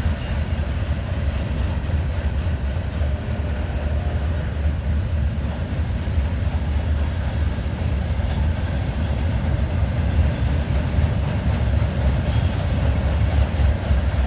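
Train rumbling past: a steady, loud low rumble, with a few faint high-pitched ticks from the wheels and rails.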